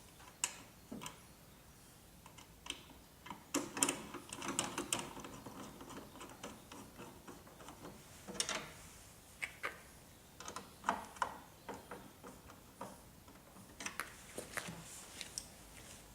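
Irregular small clicks and knocks of hand-tool assembly work: screws and nuts being fastened with a screwdriver and spanner. There is a busy patch of knocks with a brief low ring a few seconds in.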